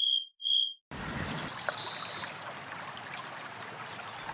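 Two short high electronic beeps about half a second apart, then a faint steady hiss.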